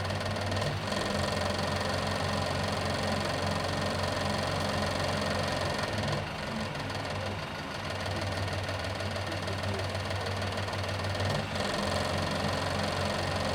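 A car engine running steadily under a broad hum of road noise while driving, easing briefly a little after six seconds in and again for a moment about eleven seconds in.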